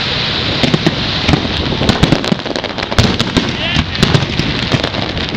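Fireworks display: shells bursting and crackling in quick succession, many sharp bangs with no gap between them, over a crowd of spectators talking.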